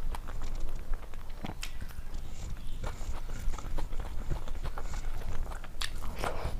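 Close-miked chewing of food: a steady run of small sharp mouth clicks and smacks.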